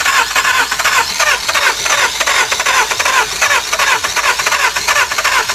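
2003 Nissan Altima's 2.5-litre four-cylinder engine cranking on the starter in an even, rapid rhythm without catching. It is a crank-no-start: there is no spark, which the mechanic ties to a P0340 camshaft position sensor code.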